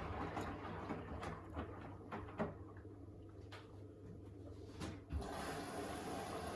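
Beko WTK104121A washing machine running a wash: a low steady hum with a few soft knocks about a second apart as the drum turns the load, then about five seconds in a louder steady rushing noise starts.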